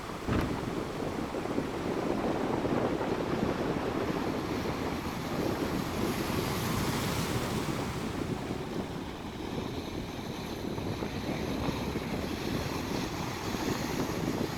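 Rough storm surf: waves breaking and washing against the rocky shore, with wind buffeting the microphone. A wave breaks hard just after the start, and another surge hisses up about halfway through.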